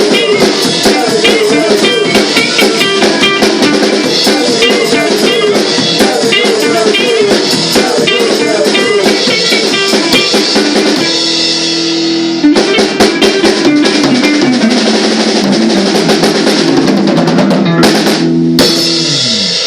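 A rock band playing live: drum kit and electric guitar in a steady driving rhythm, moving to held chords about halfway through. The song ends with a note sliding down in pitch and stopping abruptly.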